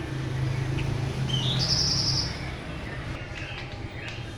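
A caged songbird sings a short rising note that runs into a buzzy, high trill about a second in, lasting about a second. A low steady hum sits underneath and fades out halfway through.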